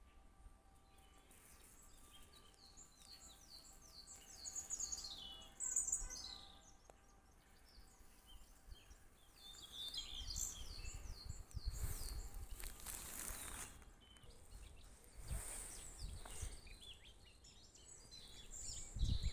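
Wild birds chirping and singing, many short high calls repeating throughout. Bursts of low rumbling noise come and go from about ten seconds in, with the loudest at the very end.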